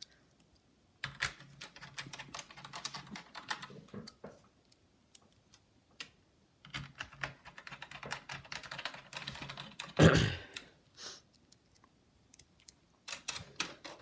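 Small screws being driven into a laptop with a precision screwdriver: bursts of rapid fine clicking, with a single louder thump about ten seconds in.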